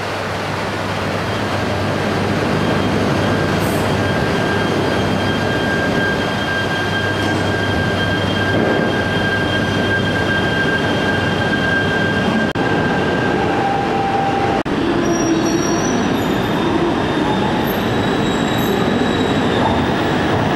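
E3 series 2000 Tsubasa and E2 series Yamabiko shinkansen trains pulling out along the platform after being uncoupled: steady running noise of the trains. A high steady tone holds for several seconds in the first half.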